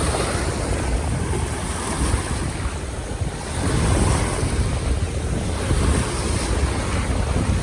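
Wind buffeting the microphone, an uneven low rumble, over a steady rushing noise of sea surf.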